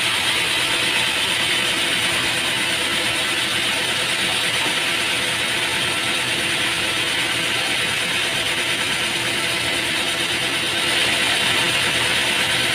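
Sawmill machinery running steadily, a continuous mechanical hiss and hum with no breaks.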